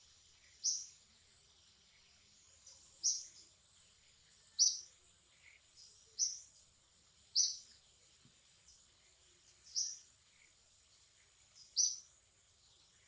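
A bird's short, sharp, high calls, seven of them about one to two and a half seconds apart, over a steady high-pitched insect hum.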